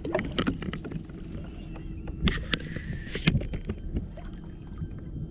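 Repeated knocks and clatter of gear being handled on a kayak, dense at first, with a bright hissing burst lasting about a second around two seconds in.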